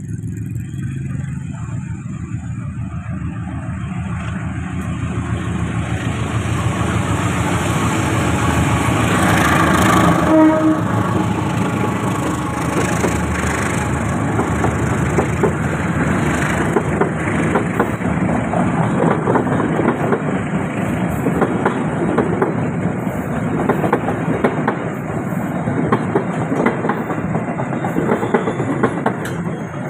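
Walahar economy commuter train, a diesel locomotive hauling economy coaches, passing close by. The train grows louder to a peak about ten seconds in, then the coaches' wheels clatter steadily over the rails.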